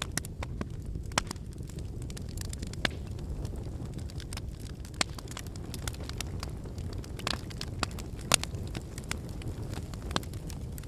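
Wood fire burning: a steady low rumble of flames with irregular sharp crackles and pops from the burning firewood, the loudest pop about eight seconds in.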